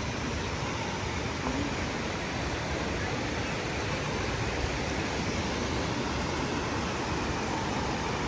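Waterfall: steady rushing of falling water, even and unbroken.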